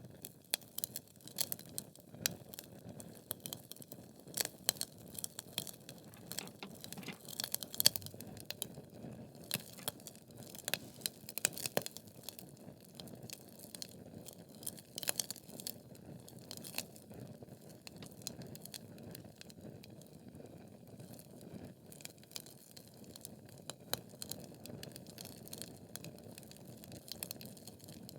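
Logs burning in a fireplace, crackling with frequent sharp pops over a soft, steady low rush of flame. The pops come thickly for the first half and grow sparser later.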